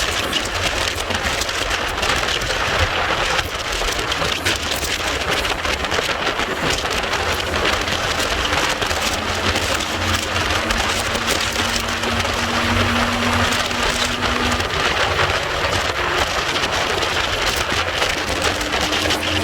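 Steady wind rush and road noise on a moving Yamaha Virago 250 motorcycle, with the engine's note faintly audible as a steady hum under the noise in the second half.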